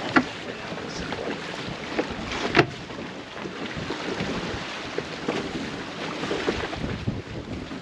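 A sailboat under sail, with wind buffeting the microphone and water rushing along the hull. A few sharp knocks sound through it, the loudest about two and a half seconds in.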